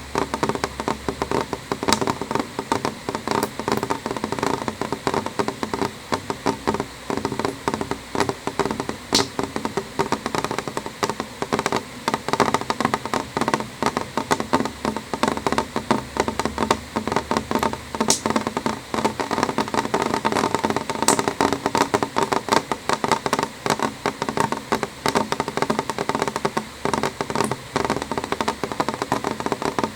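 Rain falling on a window: a dense, irregular stream of drops tapping on the glass, with a few sharper single ticks now and then.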